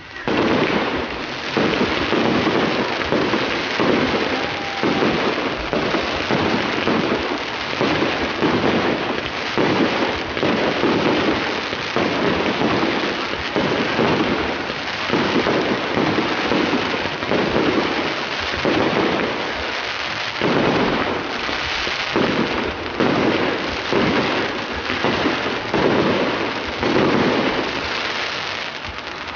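Fireworks display: a dense, continuous barrage of bursting shells and crackling, with louder bursts every second or two.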